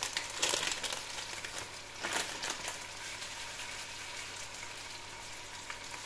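Food frying in a hot wok: a steady sizzle with fine crackles, flaring louder twice in the first few seconds.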